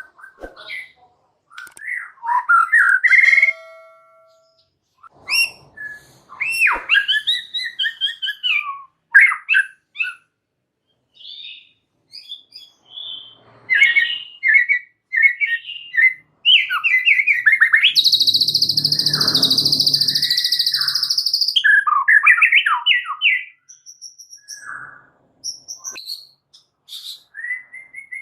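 White-rumped shama (murai batu) singing a long, varied song of whistles, trills and chattering phrases. About two-thirds of the way through, a harsh buzzing rattle lasts about three seconds.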